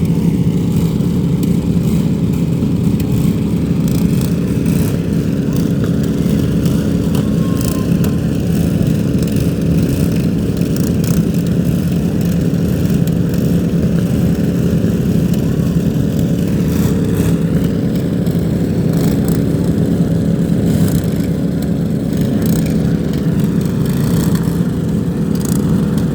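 Several riding lawn mower engines running together in a steady, loud drone, with scattered sharp knocks and clicks.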